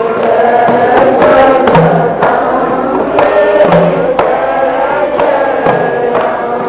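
Devotional bhajan music with no words sung: a steady pitched melody over hand-drum strokes in a regular rhythm.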